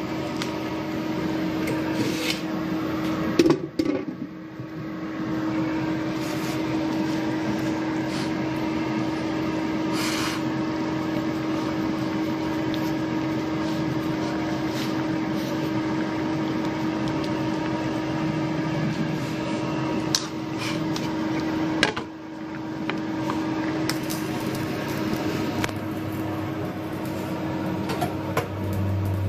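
Steady hum of a running kitchen appliance or fan, with a sharp knock about three and a half seconds in and another about twenty-two seconds in, and a few light clicks between.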